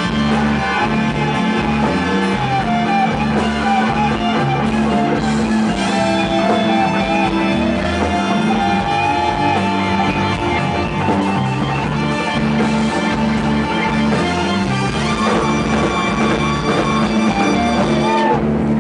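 Live blues-rock band playing an instrumental passage: an electric guitar lead with bent, wavering notes over bass and drums.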